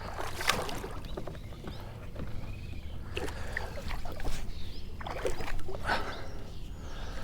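Water splashing and sloshing beside a kayak in a few irregular bursts, as a big hooked catfish is worked at the surface next to the boat.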